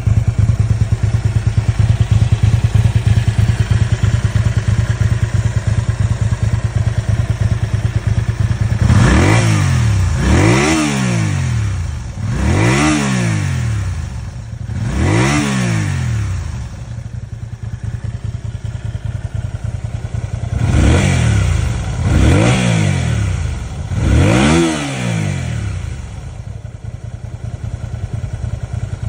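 Honda VT250F's V-twin engine idling steadily, then blipped with the throttle seven times: four quick revs, a short spell of idle, then three more, each rising and falling back to idle.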